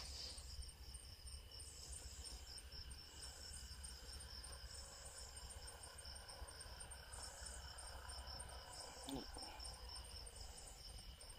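Crickets chirping steadily and faintly, with one louder chirp repeating about every second and a half.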